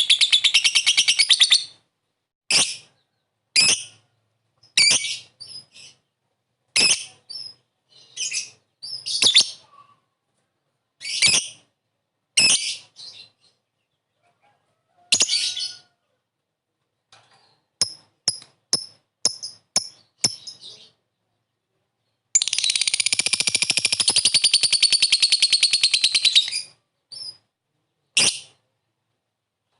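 Lovebird calling: short shrill chirps about once a second, a run of quick sharp ticks (ngetik) about two-thirds of the way through, and a long, rapid rolling chatter (ngekek) lasting about four seconds near the end, with another trailing off at the start.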